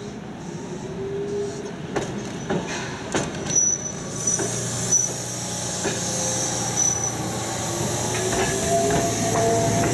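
Former Toden streetcar taking a sharp curve, its wheels squealing in thin, gliding tones against the rail, with several sharp knocks in the first half and a steady low motor hum underneath. It grows louder toward the end as it approaches.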